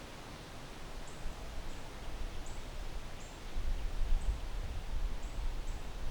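Wind gusting through backyard trees, leaves rustling, with low rumbling wind buffets on the microphone that build through the second half. Short high chirps, likely from a small bird, repeat about once or twice a second.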